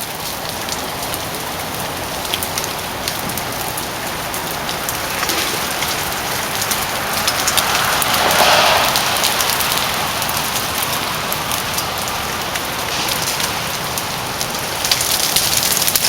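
Ice breaking off ice-coated tree branches and falling, a steady hiss of many small ticks and clicks, with a louder rush of falling ice about halfway through.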